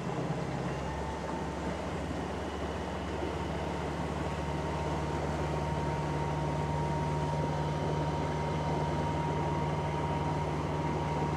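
Momentum M10 10 kW electric outboard motor running under throttle as the boat gathers speed, with a thin steady whine that sets in about a second in over a low hum and a noisy rush of water and wind, slowly getting a little louder.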